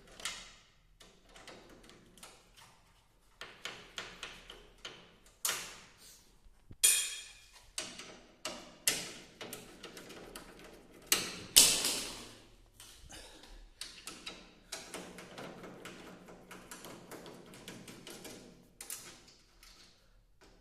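An irregular series of knocks and clinks, a few of them sharp and loud, each dying away quickly.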